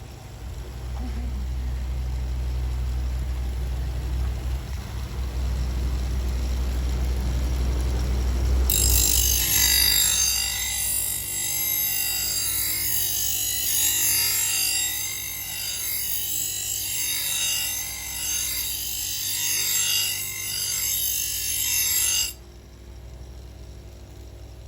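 Electric knife grinder: a steady low motor hum, then from about nine seconds in a harsh high-pitched hiss of steel being ground on the abrasive, which stops abruptly near the end.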